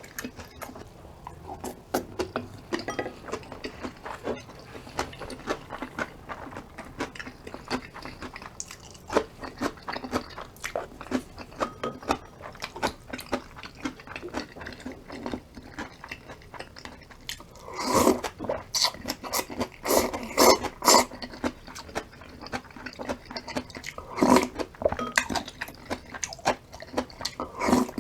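Close-miked chewing and crunching of a bibimbap with raw radish salad, a steady run of small mouth clicks. Louder bursts of eating noise come about 18 to 21 seconds in and again around 24 seconds.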